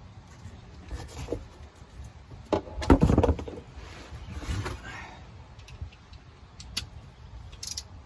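Small metal clinks and clicks of a wrench and socket as the oil drain plug on a Chevrolet Suburban 5.3L is reinstalled, with a short burst of clattering about three seconds in.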